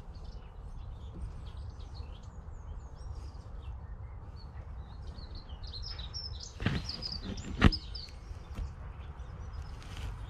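Small birds chirping and calling over a steady low background noise, with two sharp knocks about two-thirds of the way through.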